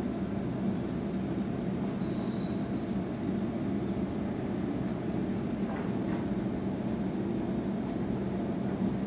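Sydney Tangara electric multiple-unit train moving past along the platform, a steady rumble of wheels and running gear. A brief faint high tone comes in about two seconds in.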